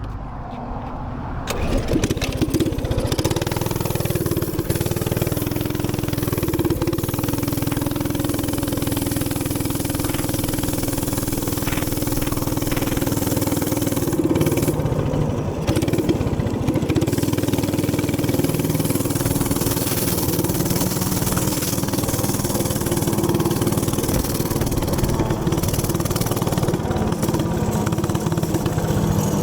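Minibike's small gas engine running steadily at speed under a rush of wind noise; the engine note comes up loud about a second and a half in.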